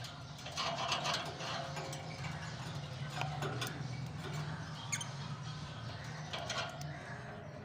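Lovebirds chattering with short squawks and chirps in bursts, about a second in, around three seconds in and again near the end, with a few sharp clicks, over a steady low hum.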